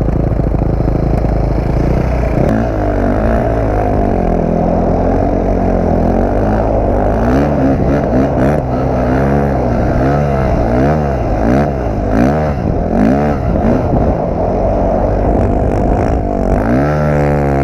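Dirt bike engine held steady for about two seconds, then revved up and down over and over, its pitch rising and falling about once a second, before settling into a steadier note near the end.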